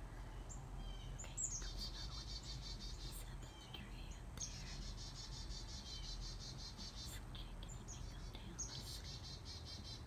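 A small bird singing a rapid, high trill of evenly repeated chirps, three times in a row, each run about two seconds long with short pauses between.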